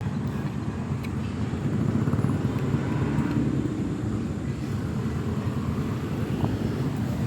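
Steady low rumble of wind buffeting the microphone during a bike ride.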